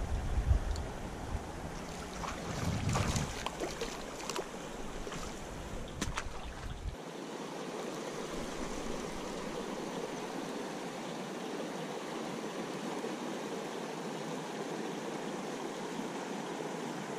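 Steady rush of flowing river water. In the first seven seconds there are also low bumps and scattered sharp clicks and splashes; these stop abruptly about seven seconds in.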